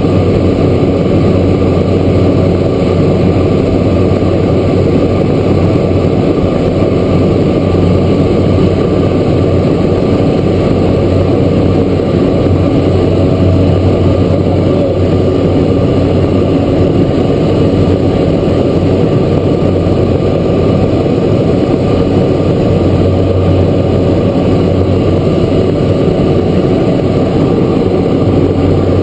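Cessna Grand Caravan's single PT6A turboprop engine and propeller, heard inside the cabin, running steadily with an unchanging loud drone and a strong low hum.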